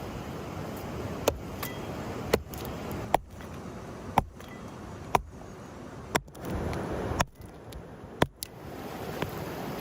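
A run of sharp knocks, about one a second, eight in all, over the steady rush of a mountain stream.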